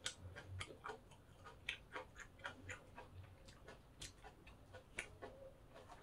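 A person chewing crunchy pork-cartilage fried rice close to the microphone: faint, irregular crunching clicks, several a second.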